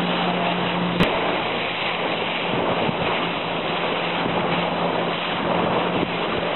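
Motorboat under way: the engine running as a steady low hum, with wind buffeting the microphone and water rushing past the hull. A single sharp knock about a second in.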